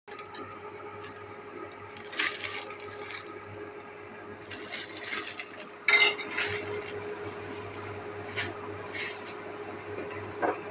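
Kitchen utensils and dishes clinking and scraping over a faint steady hum, with the loudest, sharpest clink about six seconds in.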